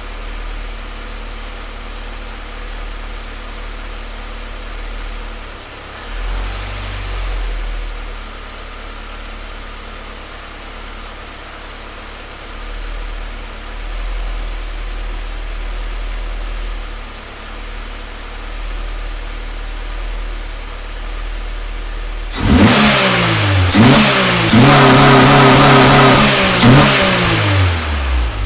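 Car engine idling roughly, given a small blip of throttle about six seconds in. Near the end it is revved hard several times in quick succession, then falls back to idle.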